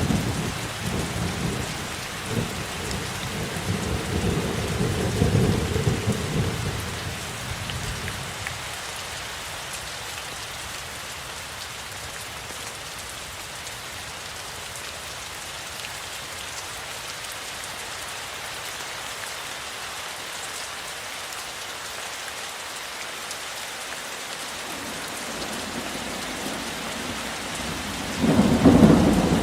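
Steady heavy rain with rolling thunder that rumbles through the first several seconds and dies away. Near the end a new thunderclap breaks loudly.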